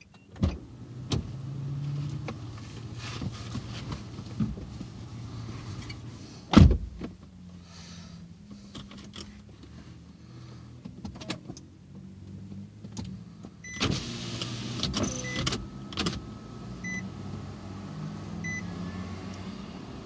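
Car running, heard from inside, with scattered clicks and a loud thump about six and a half seconds in. A few short high beeps come near the end.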